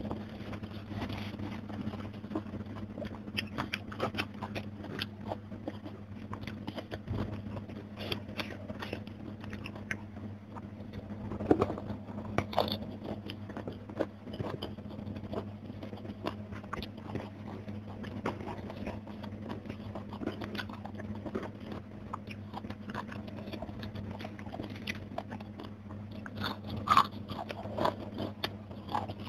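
Close-miked chewing and crunching of a mouthful of crispy fried fish with rice, many small wet clicks and crunches, with two sharper crunches about a third of the way in and near the end. A steady low hum runs underneath.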